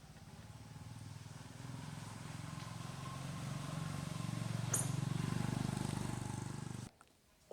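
A vehicle engine running steadily and growing louder, then cut off abruptly near the end, with a brief sharp click about two-thirds of the way through.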